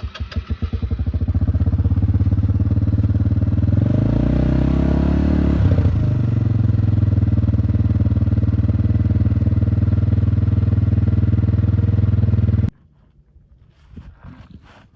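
Kawasaki KFX 90 ATV's small single-cylinder engine started up and running, its pitch dipping and rising about four to six seconds in before holding steady, then shut off abruptly.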